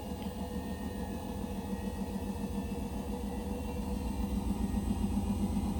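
Indesit BWE101683 washing machine spinning an unbalanced load: a steady motor hum over a rapid rumble as the machine shakes, slowly getting louder. The imbalance and shaking come from the machine standing on an uneven floor.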